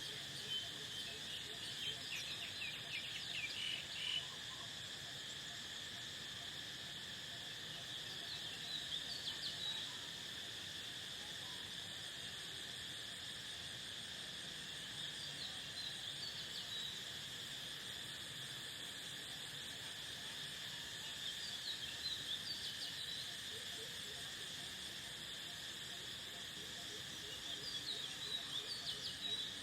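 Steady high-pitched chorus of crickets, with several short bursts of bird chirping spread through it.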